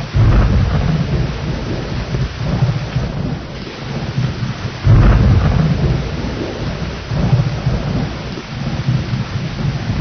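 Steady rain with rolling thunder. A deep rumble swells in right at the start, a second, louder one breaks in about five seconds in, and smaller rumbles follow.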